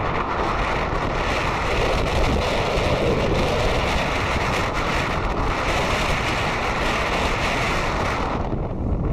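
Steady wind rushing and buffeting over the microphone of a moving two-wheeler, a loud noise with a heavy low rumble; the higher hiss thins out near the end.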